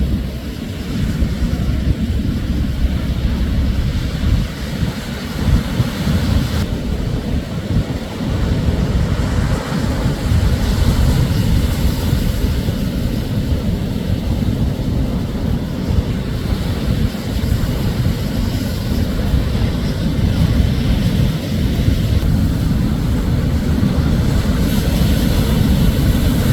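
Wind rumbling and buffeting on the microphone, over the steady wash of shorebreak surf.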